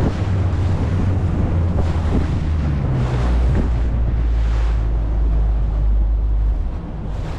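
Wind buffeting the microphone with a heavy low rumble over sea noise and the boat's outboard motor on a small inflatable boat. The rumble eases shortly before the end.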